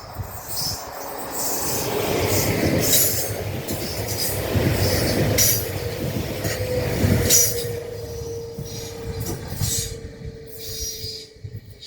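A train passing close by, its wheels clicking over the rail joints as it swells and then fades. About halfway through a steady wheel squeal joins in and carries on until the train has almost gone.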